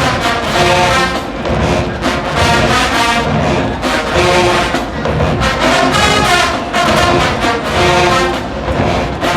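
Marching band's brass section playing loud, punchy phrases over drums, with short breaks between phrases.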